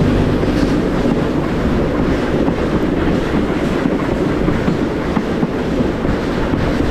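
Western Maryland Scenic Railroad train running along the track: a steady noise of wheels on rails.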